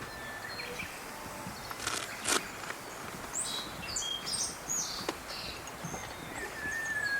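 Quiet natural outdoor ambience with scattered high bird chirps and a few sharp clicks about two seconds in. Near the end a bird begins a long, steady whistled note.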